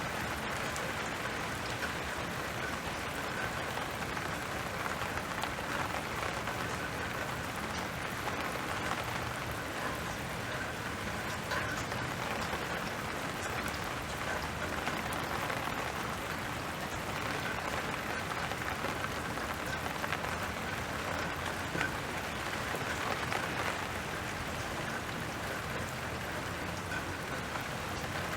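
Steady rain falling, an even hiss of many drops with scattered individual drop ticks on a surface.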